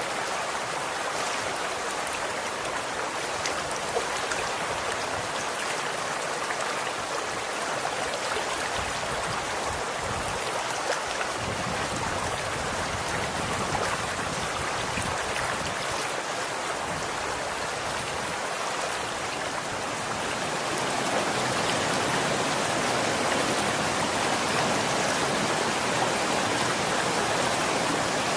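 Running water: a stream flowing and splashing in a steady rush, growing a little louder about two-thirds of the way through.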